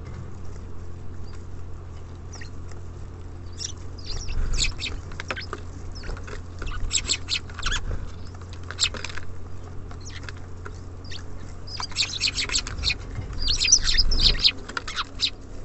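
Small songbirds at a feeder chirping in short, sharp clusters of calls, over a steady low background hum.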